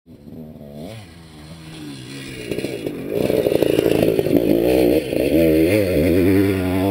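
Honda CR500's two-stroke single-cylinder engine revving on and off as the motocross bike rides close by, its pitch rising and falling with the throttle. It grows much louder about three seconds in as the bike draws near.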